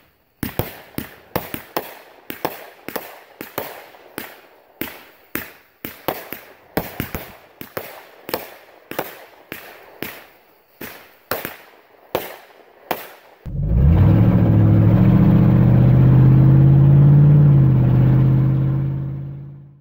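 Fireworks going off overhead: a rapid string of sharp bangs, two to three a second, for about thirteen seconds. Then a loud, steady low droning tone takes over and fades out near the end.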